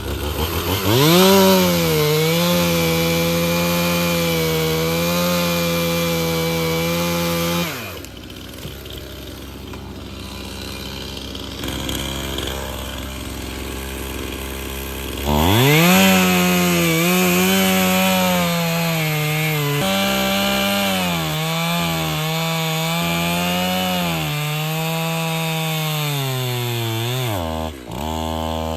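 Stihl MS 271 50 cc chainsaw revs up to full throttle and runs steadily for about seven seconds, then drops back to a low idle. About halfway through it revs up again and runs for roughly twelve seconds, its pitch sagging and recovering as it cuts, before falling back with a short blip of throttle near the end.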